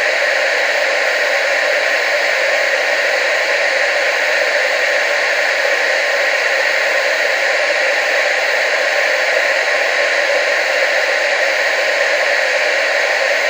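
Television static: a steady, even hiss, mostly in the middle and upper range with little bass, unchanging throughout.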